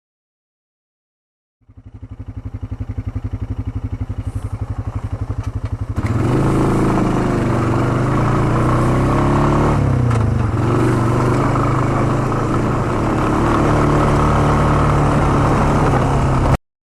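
Honda ATV engine idling with an even pulsing beat, then about six seconds in running louder as the quad rides along the trail, its pitch dipping briefly around ten seconds before it picks up again. The sound starts after a second and a half of silence and cuts off abruptly near the end.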